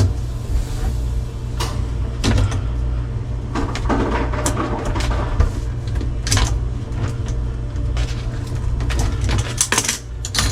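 Scattered clicks, knocks and light metal clinks from handling and tightening plumbing fittings on a dishwasher water line, over a steady low hum.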